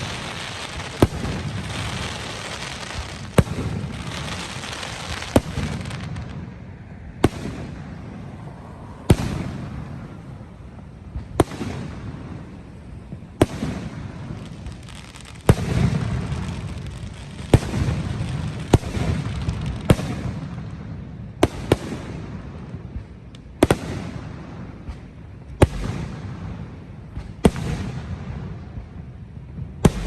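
Fireworks display: sharp aerial shell bursts about every one to two seconds, over a continuous crackle that is densest in the first few seconds.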